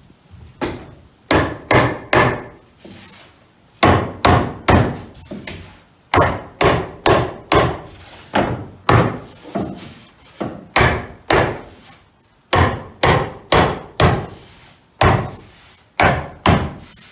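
Hammering: a long series of sharp blows in quick runs of about two to three a second, with short pauses between the runs.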